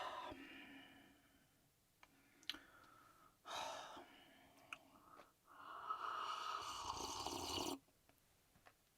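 A person breathing out hard: a short breath about three and a half seconds in, then a long exhale of about two seconds, with a few faint clicks.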